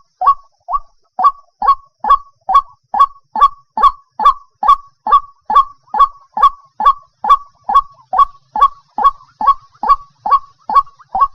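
White-breasted waterhen calling, a steady run of short honking notes repeated about twice a second, with one brief break about a second in.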